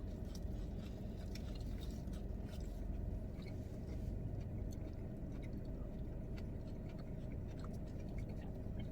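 Close-up chewing and biting of a burger and fries, with small wet mouth clicks scattered through, over a steady low rumble.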